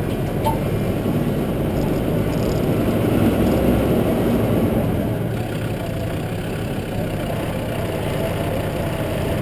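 4x4 vehicle's engine running steadily off-road, heard close from on board the vehicle. It swells a little toward the middle and then eases off.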